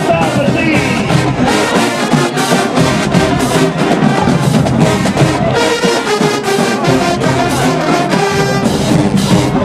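HBCU marching band playing loudly, its brass section of trumpets and trombones carrying the music over the percussion.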